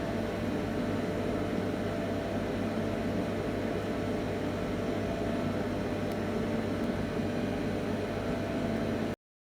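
A small motor running steadily, an even whir with a constant low hum, that cuts off abruptly near the end.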